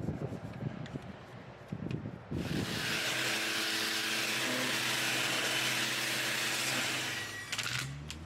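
A few irregular knocks and clatters, then a pressure washer starts spraying about two seconds in: a loud, steady hiss over the hum of its motor. Near the end the spray cuts off and the motor hum winds down.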